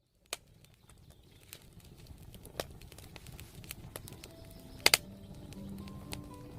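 Campfire crackling, with sharp pops about once a second and a loud double pop about five seconds in, over a low rumble that fades up from silence. Faint music with held notes comes in during the second half.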